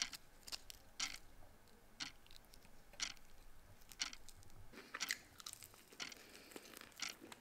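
A person biting and chewing a deep-fried salt and pepper chicken wing: faint, scattered crisp crunches and mouth clicks.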